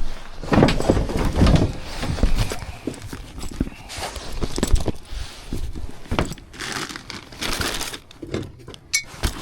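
Tools and bags being handled and rummaged through: irregular knocks and clanks with rustling in between.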